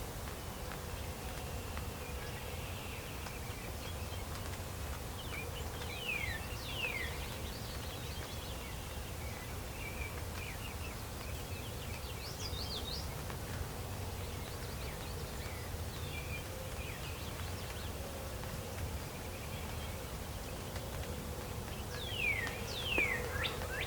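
Songbirds calling over a steady low outdoor rumble: scattered short chirps, and pairs of quick downward-sliding whistles about six seconds in and again near the end.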